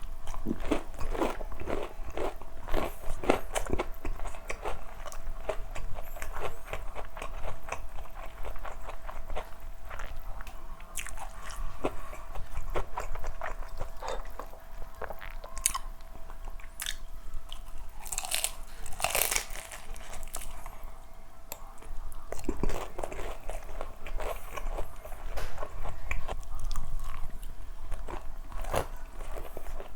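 Close-miked biting and chewing of crispy KFC fried chicken: dense, irregular crunches and crackles of the breading, with a few louder crunches about two-thirds of the way in.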